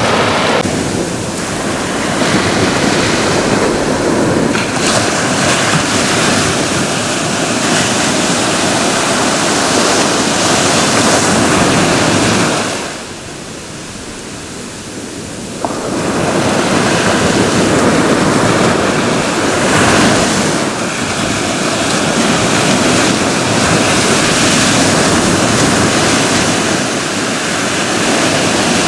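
Ocean surf breaking and washing on a shore in a continuous, loud rush. About halfway through it drops to a quieter lull for roughly three seconds, then comes back suddenly.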